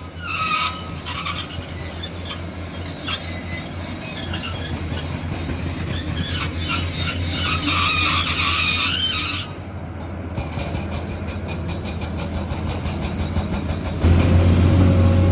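Heavy excavator at work: a steady diesel engine hum under high metallic squealing and scraping. About two-thirds of the way in the squeals stop abruptly and give way to an even, rhythmic clatter, and the engine gets louder near the end.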